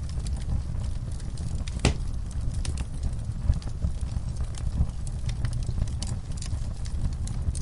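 Wood fire burning in a fireplace: a steady low rumble of flames with scattered crackles and pops, the sharpest pop about two seconds in.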